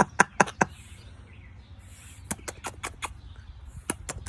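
Quaker parrot making sharp clicking, kiss-like smacks in quick runs of three to five, with a few soft breathy hisses between.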